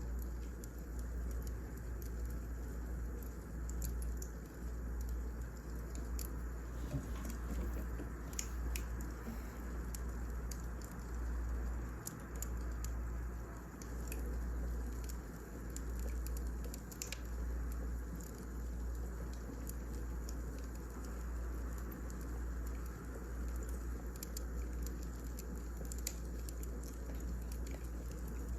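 Wood fire crackling: burning logs giving scattered sharp pops and snaps over a steady low rumble and hiss.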